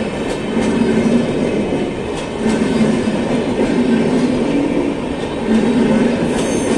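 Kalka Express passenger train's coaches rolling past close by: a steady rumble of wheels on the rails, with faint clicks as wheels cross rail joints and a gentle swelling and fading as each coach goes by.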